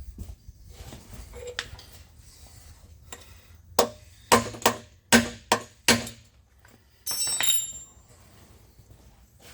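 Five sharp metal-on-metal knocks within about two seconds, then a rattling metallic scrape with a high ring about seven seconds in: hand tools working the shaper's stroke-adjustment lock nut.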